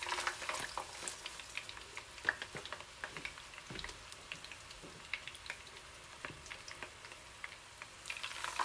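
Seasoned chicken breasts sizzling in hot vegetable oil in a frying pan: a steady hiss with many small pops and crackles. About eight seconds in, another breast goes into the pan and the sizzle gets louder.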